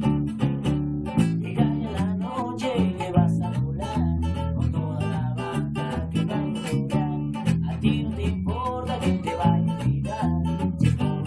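Guitar and bass guitar playing a rock and roll song together: rhythmically strummed guitar chords over a bass line.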